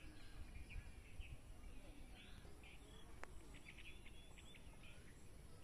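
Faint bird chirps and twittering, with a quick run of short notes about three and a half seconds in, over a low steady rumble.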